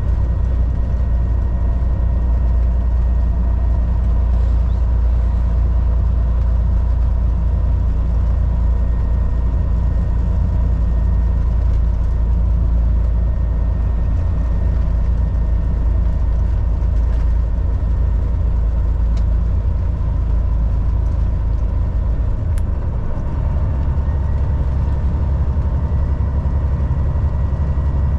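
Volvo VNL 760 semi truck's diesel engine running steadily under way, with road noise. About 23 seconds in, the low engine note changes pitch.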